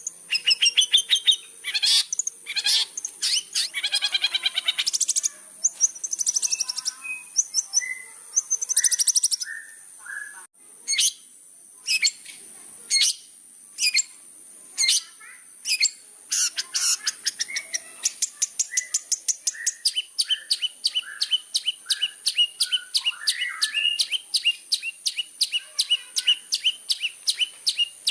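Long-tailed shrike singing a varied, chattering song: sharp chirps, short trills and quick runs of notes. In the second half it settles into a fast, even series of sharp notes, about four a second.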